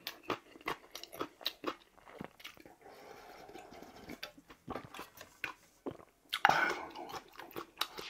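Close-up chewing of a mouthful of bibimbap mixed with crisp raw kohlrabi salad: many quick, sharp crunches, with a louder breathy sound about six and a half seconds in.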